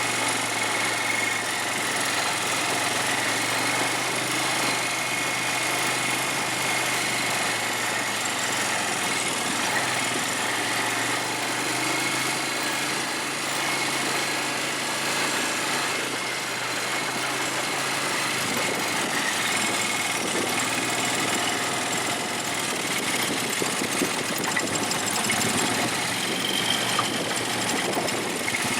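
ATV (quad bike) engine running steadily, a continuous hum with a faint high whine.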